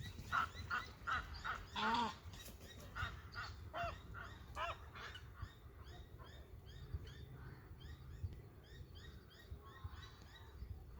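Birds calling: a run of loud, repeated calls, a few a second, through the first five seconds, then a steady chatter of fainter, quicker calls, over a low background rumble.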